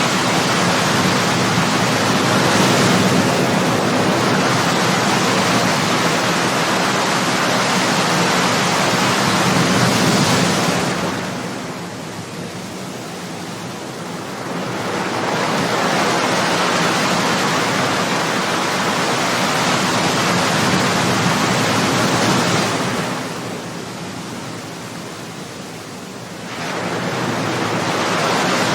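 Ocean surf: a continuous rush of breaking waves. It eases off into two lulls of about three seconds each, a little after ten seconds in and again a little after twenty, and swells back as the next waves break.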